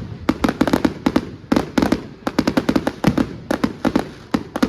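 Fireworks going off in rapid volleys: tight clusters of sharp bangs and crackles, one cluster after another every half second or so without a pause.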